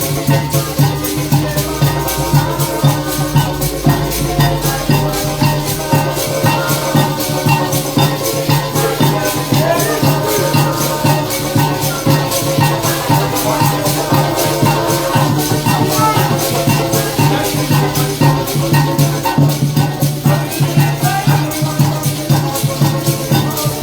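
Live parang band music with a maraca (shak-shak) keeping a fast, even rhythm over sustained pitched instruments and a steady bass line.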